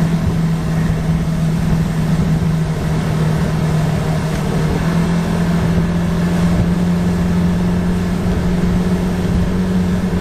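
Boat's outboard motor running steadily at planing speed through rough, choppy water, with an uneven low rumble under the engine note. The engine pitch rises slightly about halfway through.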